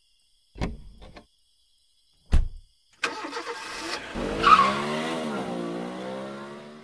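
Two short thumps, then a cartoon sound effect of a car engine starting up and revving as the car drives off. Its pitch climbs, dips and then holds steady.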